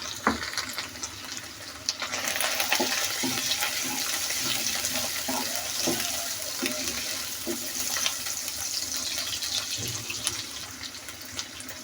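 Tomatoes sizzling in hot oil in a pan, with a few short knocks as they are stirred; the sizzle swells about two seconds in and eases off near the end.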